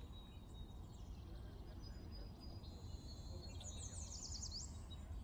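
Quiet steady background hum. Past the middle, a bird chirps faintly, ending in a quick trill of rapid notes.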